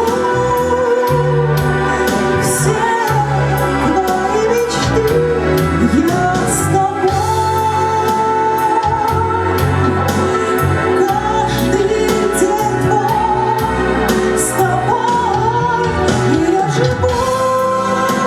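A woman singing a ballad over a backing track of keyboards, bass and drums, with long held notes; near the end she holds one long, steady note.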